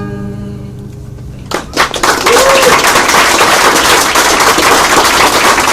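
The last acoustic guitar chord of the song ringing out, then audience applause breaking out about a second and a half in, a few first claps quickly growing into dense, loud clapping.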